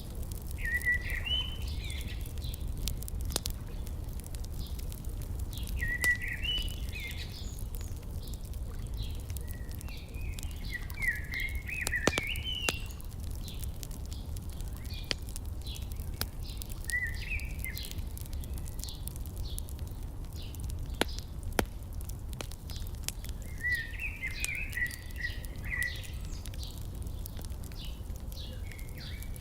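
Wood fire crackling and popping with sharp irregular snaps over a steady low rumble, while a songbird sings short chirping phrases every few seconds.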